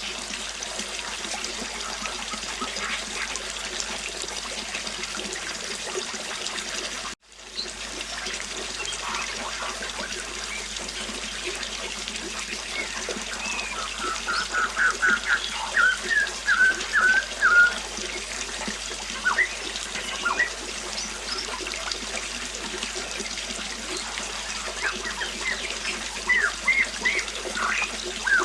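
River water flowing steadily, with small birds chirping in quick runs of short notes in the second half. The sound drops out for a moment about seven seconds in.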